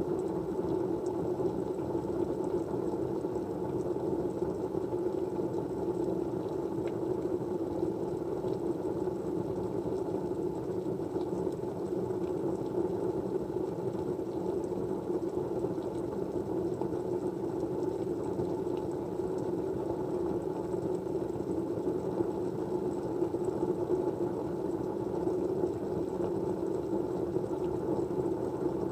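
Steady rushing white noise, even throughout and strongest in the low-middle range, with a faint high whine and a few faint ticks.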